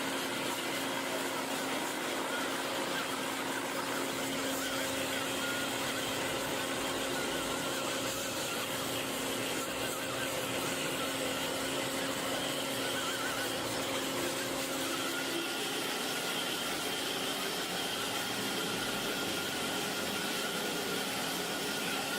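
A machine running steadily, an even hiss with a constant whine over it.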